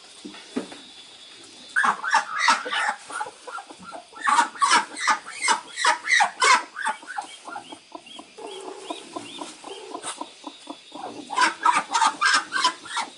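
Chickens clucking in three runs of rapid, repeated calls, with quieter gaps between them.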